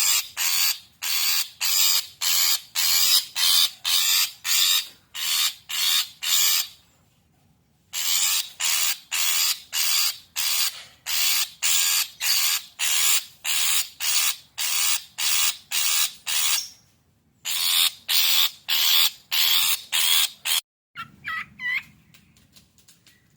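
Long-tailed shrike (cendet) giving agitated, harsh rasping calls, about two a second, in long runs broken by two short pauses. The calls stop near the end, and a few faint thin chirps follow.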